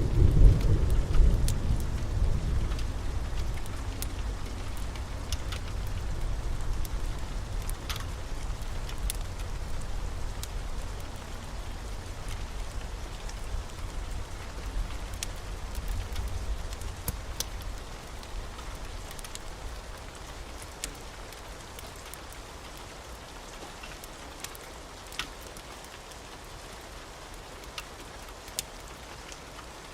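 Wood fire crackling in a fireplace, a steady hiss with scattered sharp pops. A deep rumble is loud at the start and fades away over about fifteen seconds.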